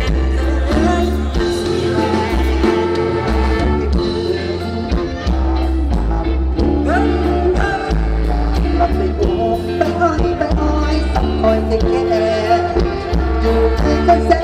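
Live band music with a singer, in the Isan luk thung style: a heavy steady bass beat under a sung melody that bends and slides in pitch.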